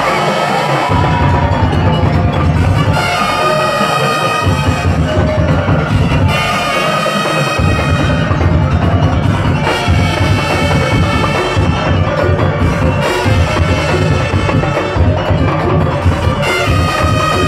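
Madurese daul music: a percussion ensemble of drums and struck wooden and mallet percussion playing a driving rhythm with a few short breaks, under a held, many-overtoned melody line.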